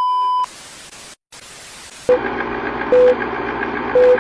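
Electronic intro sound effects: a short steady beep, then static hiss with a brief dropout. About two seconds in comes a louder buzzing hum with a short beep about once a second.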